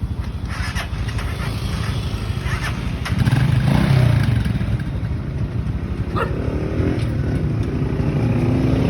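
Motorcycle engine running with a rapid low pulsing, picking up revs and getting louder about three seconds in.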